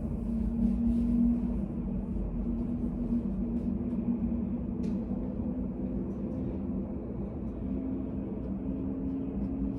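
Steady low hum of room ambience, with faint light taps now and then and a single clearer click about five seconds in.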